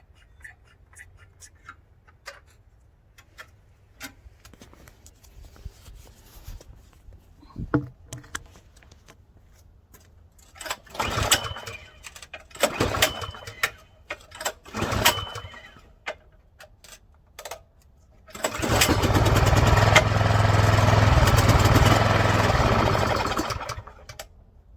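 Snowblower engine being pull-started: scattered light clicks, then three short pulls on the recoil starter rope about two seconds apart. A later pull catches and the engine runs steadily for about five seconds, then stops.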